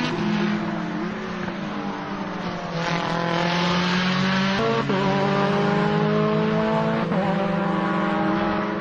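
Shelby GT500's V8 under hard acceleration, its pitch climbing, with two quick upshifts about five and seven seconds in, each dropping the revs before they climb again.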